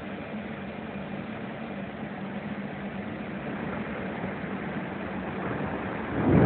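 Steady noisy background with a low hum, then near the end a loud, low rumble of thunder breaks in suddenly.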